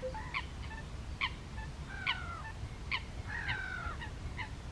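Waterbirds calling: a series of short, sharp calls repeated about once a second, two of them drawn out into a longer falling note.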